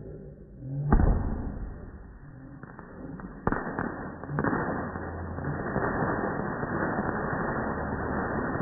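Fireworks going off: a loud bang about a second in, two more sharp cracks a few seconds later, then a steady hissing rush that carries on to the end.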